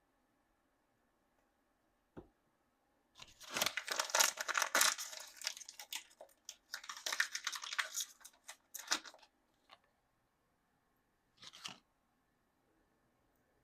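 Thin plastic toy packaging being torn open and crinkled in two long stretches of crackling, about 3 and 7 seconds in. A light tap comes just before and a short click follows near the end.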